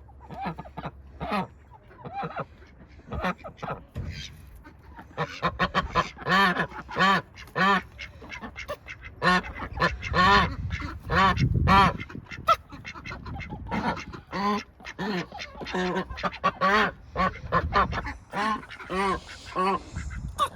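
Domestic ducks quacking, many short calls in quick runs, with a busier stretch in the middle.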